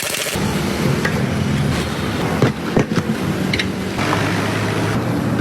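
Steady motor hum with several sharp knocks about halfway through, typical of work on a vehicle in a repair shop.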